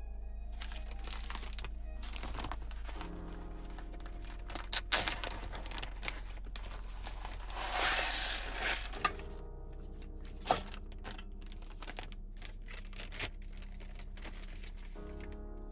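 Packaging being crinkled and torn open in several bursts, the loudest about eight seconds in, with small clicks and handling knocks, over soft background music.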